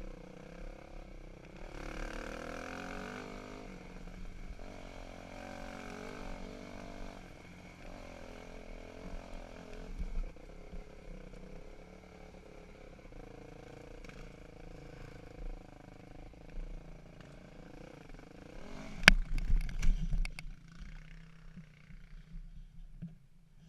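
Dirt bike engine running, its pitch rising and falling with the throttle. Near the end comes a cluster of loud knocks, after which the engine note fades.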